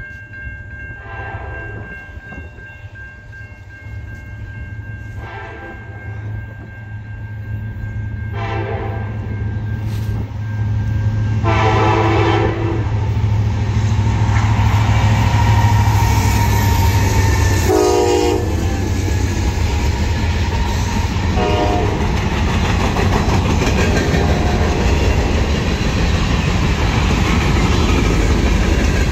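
CN diesel-hauled freight train sounding its horn in repeated blasts as it approaches, the longest about twelve seconds in, while the low engine rumble grows louder. The locomotives pass and the freight cars follow with steady wheel-on-rail rolling noise, with a few shorter horn blasts after.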